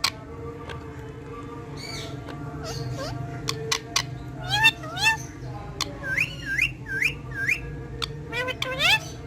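Pet parrot whistling and squawking: sharp short calls and chirps, with a run of quick rising whistles in the middle, over a steady low hum.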